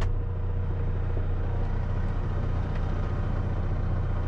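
Loaded concrete mixer truck's diesel engine idling: a steady, even low hum.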